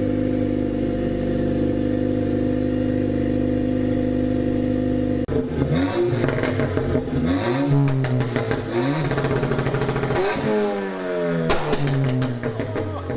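Race car engine running at a steady idle, then blipped up and down repeatedly from about five seconds in, with sharp crackles and pops from the exhaust and a burst of loud bangs near the end. The pops come from a fuel map tuned for exhaust flames and bangs.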